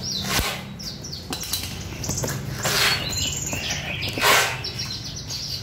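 Birds flapping their wings in short bursts with rustling, about three times, while short, falling, high chirps from caged birds sound in between.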